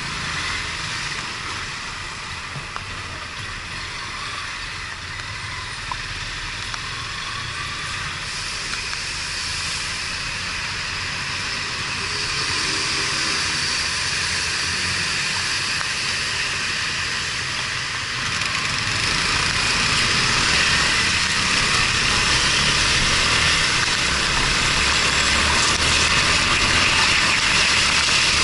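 Yamaha Fazer 250's single-cylinder engine running under a steady rushing of wind and wet-road noise during a rainy ride, heard through a mounted action camera. The rushing grows louder about twelve seconds in and again near twenty seconds, as the bike speeds up.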